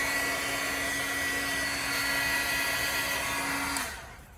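Electric heat gun blowing steadily with a high whine, heating heat-cure vinyl repair compound to remelt it. It is switched off near the end, and the fan winds down quickly.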